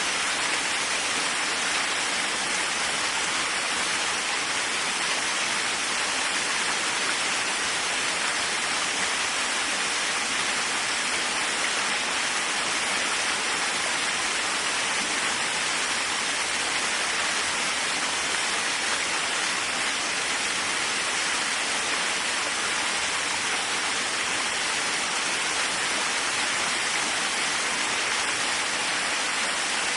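Waterfall: a steady, even rush of falling water, strongest in the upper-middle range, with no breaks or changes.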